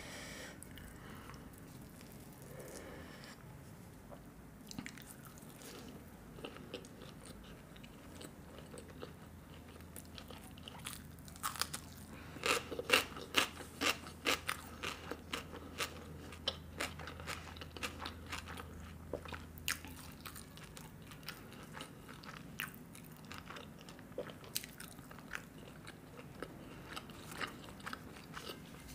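A woman eating an Indian thali, close-miked: chewing and biting, with crunchy clicks that come thick and fast for several seconds near the middle, then scattered bites.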